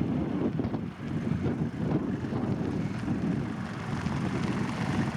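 Jet airliner engines heard as a steady low rumble at a moderate level, without clear strokes or changes in pitch.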